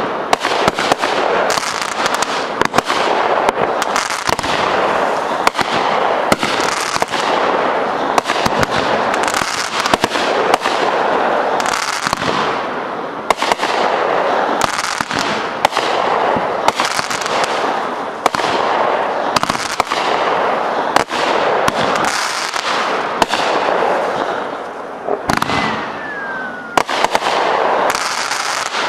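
Consumer fireworks finale with many fireworks lit together, going off nonstop: a dense, continuous barrage of crackling and sharp pops that fades near the end.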